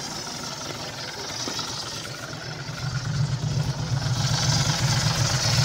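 Chevrolet car engine idling steadily with a carburettor fitted, its low hum growing louder about halfway through.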